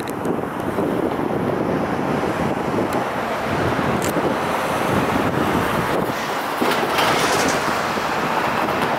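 Freight train of tank cars running away along the track, its wheels clacking on the rails, under heavy wind noise on the microphone.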